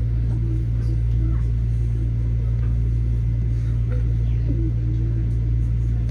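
Steady low rumble and hum of a railway train, with a faint steady high-pitched tone over it.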